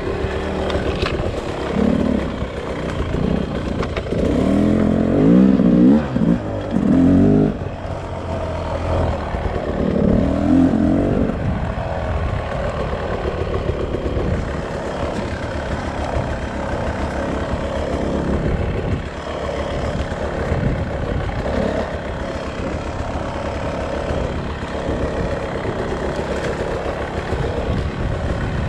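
Beta RR 300 single-cylinder two-stroke enduro motorcycle engine revving. Its pitch rises and falls sharply about four to eight seconds in and again around ten seconds in, then it runs more evenly at a steadier pitch.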